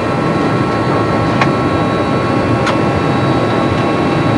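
Steady flight-deck noise inside an Airbus A300 cockpit on the ground: an even hiss of air and machinery with several steady whining tones running through it. Two light clicks come about a second and a half in and again near three seconds.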